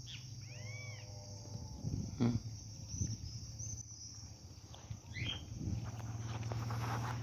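Birds calling in short arching chirps a few times over a steady, high-pitched drone of insects, with a few soft knocks in between.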